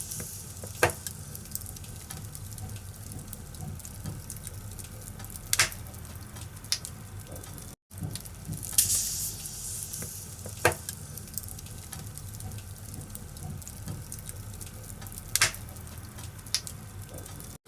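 Firewood burning in a fireplace: a steady low hiss with sharp crackles and pops every few seconds. The sound cuts out briefly about eight seconds in, and the same stretch of crackling then repeats as a loop.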